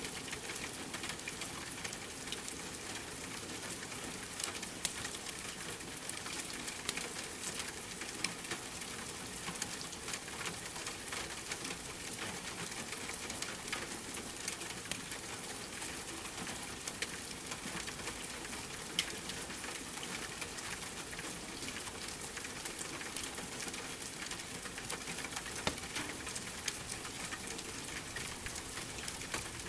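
Steady rain with a wood fire crackling: an even hiss scattered with small pops and clicks, a few of them louder.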